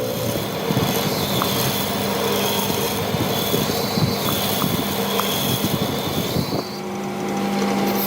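A machine running with a steady hum and a thin high tone, under irregular scraping and clattering, which stops about six and a half seconds in, leaving the hum running.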